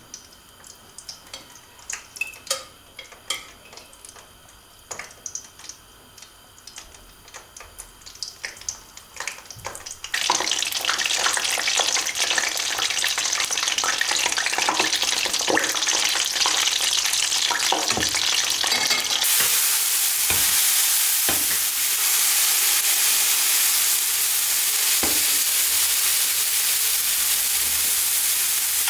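Light scattered taps and clicks, then about ten seconds in food starts sizzling in a hot frying pan, a steady hiss that grows louder about two thirds of the way through.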